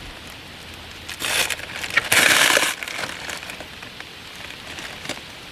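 Plastic wrapping of a rolled mattress topper crinkling and crackling as it is handled. There are two louder bursts, about a second in and again just after two seconds.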